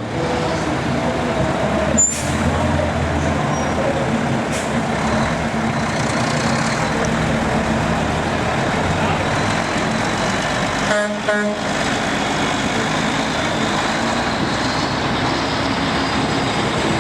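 Heavy trucks running with a steady wash of engine and outdoor crowd noise. A sharp click with a brief high hiss about two seconds in, like an air brake, and a short pitched tone, like a horn, a little past the middle.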